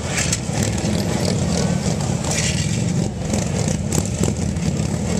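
Harley-Davidson Road King V-twin motorcycle engine running steadily, with a few short sharp clicks over it.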